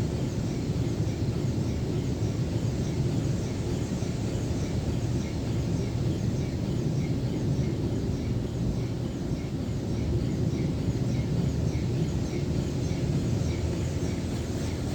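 Jim Coleman Water Wizard 1.0 automatic car wash running: a steady low rumble with a faint chirp repeating at an even pace.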